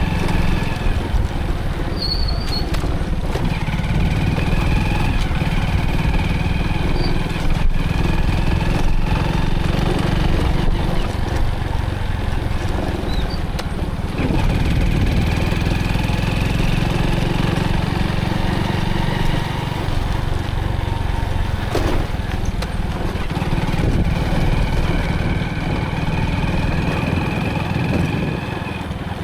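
Motorcycle engine running as the bike is ridden, its note shifting a few times with throttle and gears, with road and wind noise.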